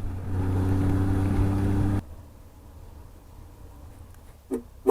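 Motorcycle engine running with road and wind noise at riding speed, heard through the rider's helmet. It drops abruptly to a much quieter rumble about two seconds in. A short, loud horn toot comes right at the end.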